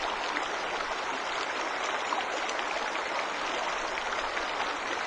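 Waterfall pouring steadily, an even rushing hiss of falling water with a fine splashing texture.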